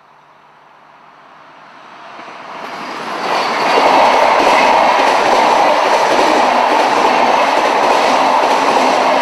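Red electric passenger train passing at speed. Its noise builds over about three seconds as it approaches, then stays loud and steady as the carriages go by.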